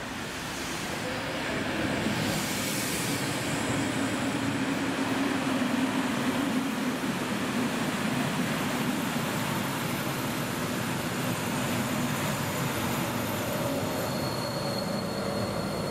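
A locomotive-hauled passenger train of older coaches runs through the station: a continuous rumble of wheels on rail that swells over the first couple of seconds and holds steady, with a thin high whine near the end as the locomotive at the rear goes by.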